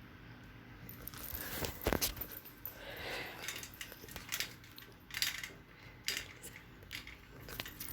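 Light handling noise: a scattered series of short clicks and knocks, about one a second, over a faint background hiss.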